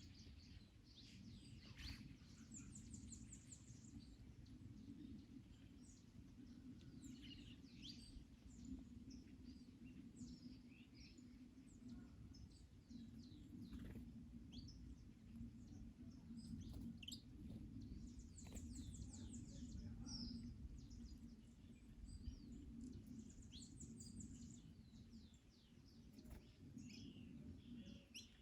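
Several garden birds chirping and singing faintly, with a high rapid trill about two seconds in and again near the middle, over a steady low rumble of wind.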